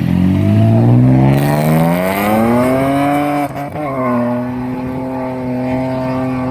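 Ford Falcon FG drift car's engine, fitted with extractors, revving up hard for about three seconds. The revs dip briefly about three and a half seconds in, then hold steady at high revs.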